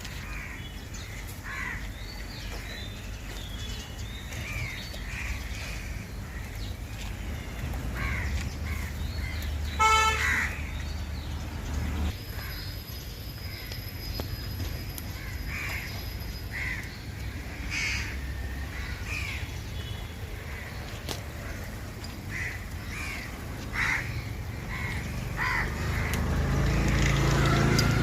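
Crows cawing repeatedly, with a brief horn toot about ten seconds in and low traffic rumble building near the end.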